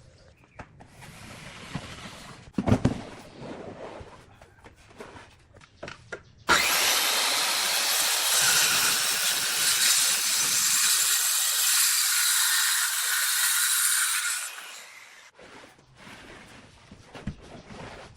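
Woodworking handling noises: wood rubbing and knocking, with one sharp knock a few seconds in. About six seconds in, a loud steady hissing tool starts; it runs for about eight seconds, then stops.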